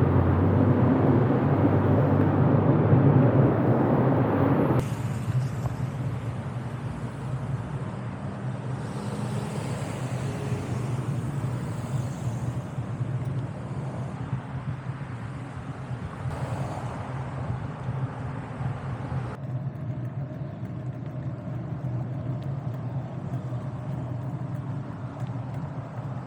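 Outdoor road traffic noise, a steady rush of passing vehicles. It is loud at first and drops abruptly about five seconds in, then runs on more quietly.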